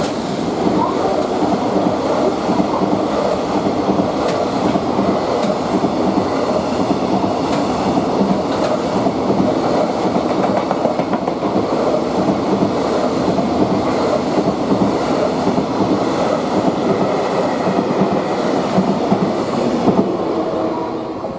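A freight train's wagons rolling past at speed, the wheels clacking steadily over the rail joints.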